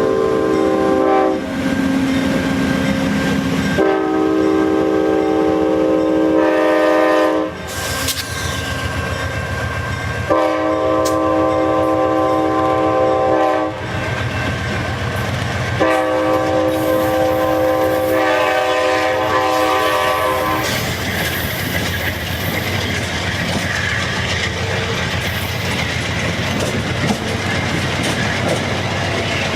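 Train horn sounding a multi-note chord in long blasts: one ending about a second in, then three more of three to four and a half seconds each. After the last blast the train rolls past steadily, its wheels clicking over the rail joints.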